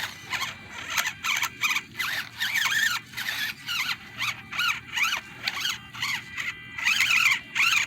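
Electric motor and gears of a 1/24-scale RC rock crawler whining in short throttle bursts, about a dozen, each rising and falling in pitch as the truck works to climb a rock.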